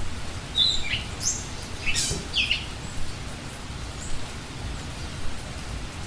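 A bird giving a short burst of high chirps and squeaky notes, starting about half a second in and over within the next two seconds, over a steady background hiss.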